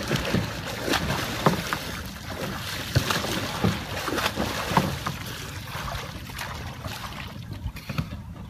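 Water splashing and churning around a sea kayak as it capsizes and is rolled back upright with a small Greenland throwing stick (norsaq). There are several sharp splashes in the first five seconds, then the water settles.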